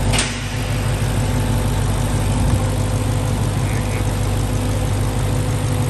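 Car engine idling steadily with an even hum, and a short click about a quarter second in.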